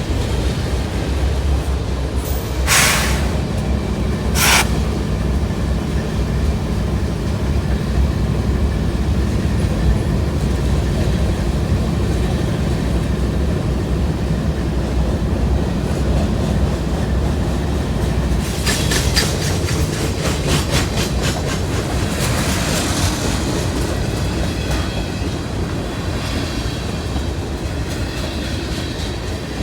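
Long freight train rolling past at speed, a steady heavy rumble with a low hum through the first half. Two sharp bangs come a few seconds in, and later a quick run of wheel clacks over rail joints.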